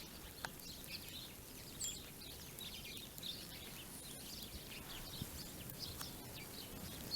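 Faint chirping of small birds: many short, scattered chirps, with one higher whistled note about two seconds in, over a low, steady outdoor hush.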